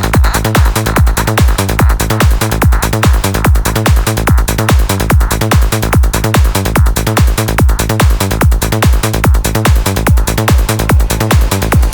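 Trance music: a steady four-on-the-floor kick drum at about two beats a second under a rolling bassline and dense synth layers.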